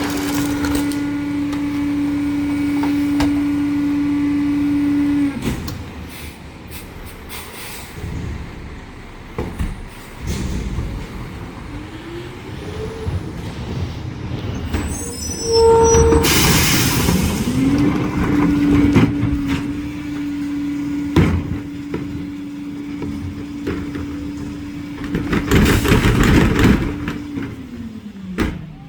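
Garbage truck working: its engine holds a steady high rev that drops off about five seconds in. Air-brake hisses come around the middle and near the end. In between, the engine revs up again and holds steady for several seconds before falling away.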